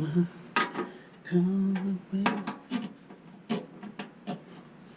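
Metal tools and hardware clinking and clicking in a handful of sharp strokes during work on a blower motor assembly, with a man humming a few low notes in between.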